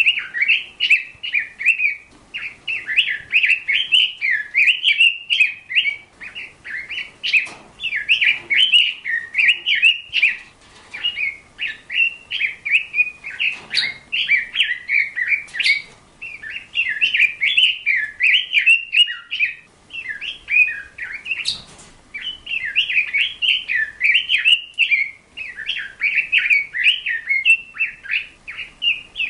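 A small songbird chirping and warbling in fast, continuous phrases, broken by short pauses every few seconds.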